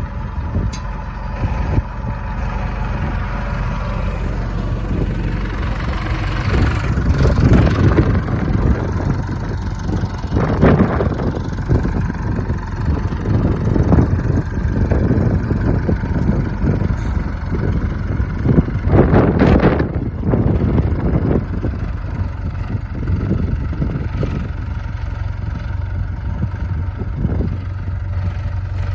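Case IH 4210 tractor's diesel engine running, mostly at a steady idle, with louder swells a few times.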